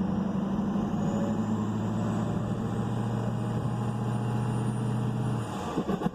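Ford 6.0 Power Stroke turbo-diesel V8 held at raised revs, with a faint turbo whistle rising in pitch, then dropping back toward idle about five and a half seconds in. The turbo is building boost normally.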